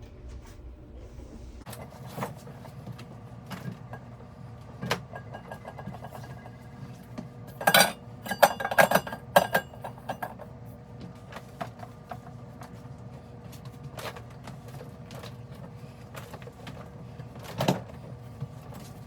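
A refrigerator being shifted out of its place: scattered knocks and clinks from it and the things on top of it, with a burst of loud rattling knocks about eight to ten seconds in.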